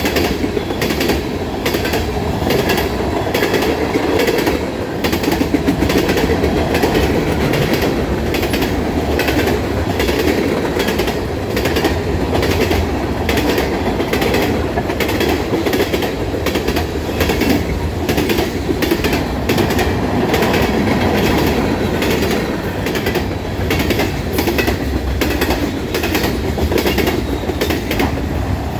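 Railroad cars rolling past at steady speed, a constant loud rumble with repeated sharp clicks of the wheels over the rail joints.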